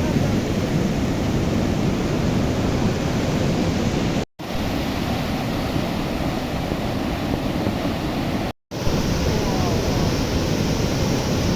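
Steady rushing of a river in flood, cut off twice for a split second, about four and eight and a half seconds in.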